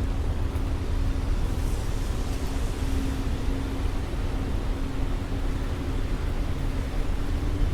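Steady city street traffic: a constant deep rumble of passing vehicles, with a low hum that fades in and out.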